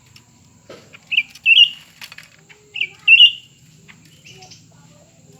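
Cucak ranting birds calling: short, sharp two-part calls repeated roughly every one and a half seconds, with a couple of brief knocks or wing flutters between them.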